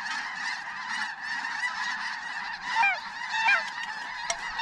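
A huge flock of snow geese calling: a dense, unbroken din of many honks, with a couple of closer, louder single calls standing out about three seconds in. A single sharp click near the end.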